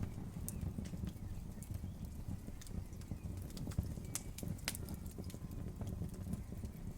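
Campfire burning, a low steady rumble with irregular crackles and pops of wood; one sharper pop about four seconds in.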